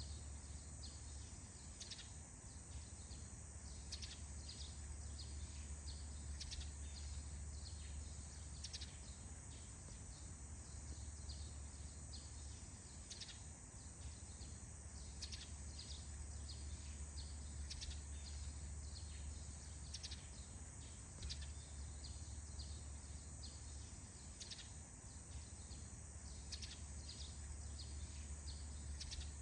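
Faint forest ambience: short bird chirps scattered irregularly over a steady background hiss and a low steady rumble.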